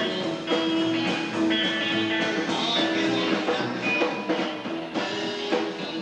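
Rock band playing a song, with guitar over a steady drum beat.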